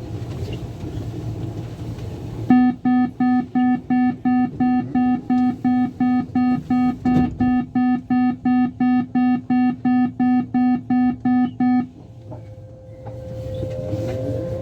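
Door-closing warning buzzer of a Lyon Metro Line B train: a fast string of about two dozen identical beeps, roughly two and a half a second, lasting about nine seconds, signalling that the doors are about to close. Near the end a rising whine starts as the train pulls away.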